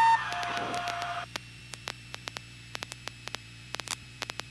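Cockpit radio and intercom audio: a steady tone steps down in pitch just after the start and cuts off about a second in. After that there is a low steady hum with scattered static clicks.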